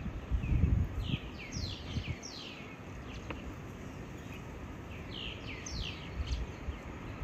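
A bird calling in two bouts of quick, falling chirps, the first about a second in and the second about five seconds in, over a low rumble.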